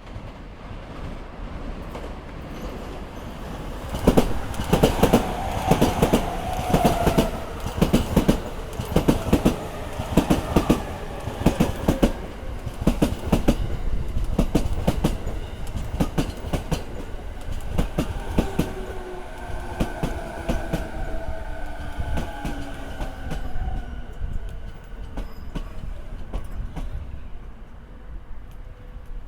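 Electric commuter train on the Sōbu Line passing over rail joints, its wheels striking the joints in a loud, rapid run of knocks (joint sound) for about 13 seconds. After that comes a falling whine as the clatter thins out.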